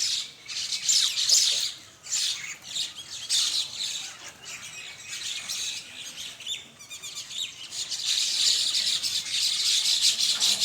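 A flock of mynas chattering and squawking, with many short calls overlapping; the chorus grows denser and steadier about eight seconds in.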